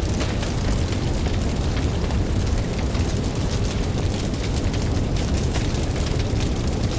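Campfire crackling with many small, quick pops, over a steady low rumble of ocean waves.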